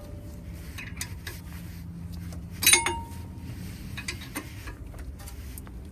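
Metal clicks and clinks of a wrench working a 12 mm bolt on a seized brake rotor, with one loud ringing metallic clank about two and a half seconds in.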